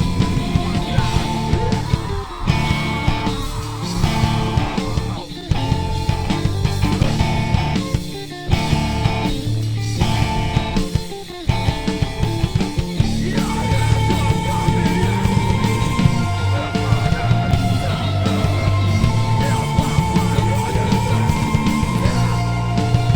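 Live rock band playing loudly, with guitars prominent. The music breaks off briefly several times in the first half before running on steadily.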